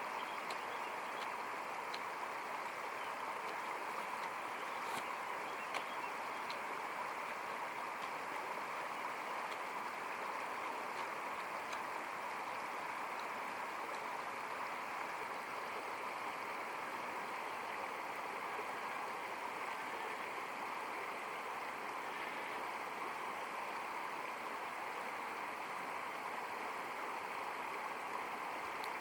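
Steady rushing noise like running water, with a few faint ticks in the first few seconds.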